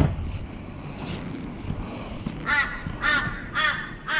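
A crow-type bird (corvid) cawing: a series of four harsh caws at a steady pace, starting a little past halfway, over a low, steady rumble.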